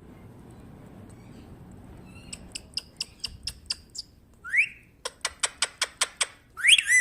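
Pet parrot making two quick runs of sharp clicks, several a second, with a short rising whistle between them and another near the end.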